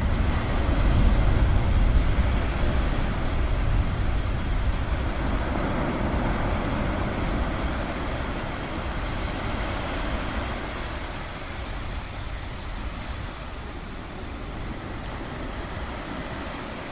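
Ocean waves washing in steady noise, with a deep low rumble that is loudest at the start and slowly fades away.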